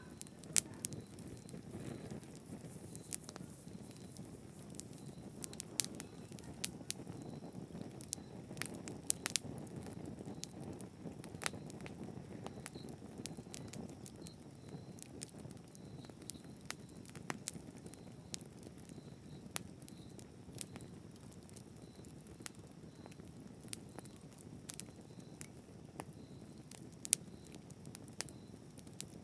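Wood fire burning steadily with a low rumble, and sharp crackles and pops scattered irregularly throughout.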